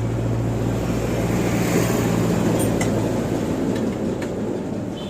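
Hero Honda Splendor's single-cylinder four-stroke engine running steadily, a little louder about two seconds in, with a few light clicks over it.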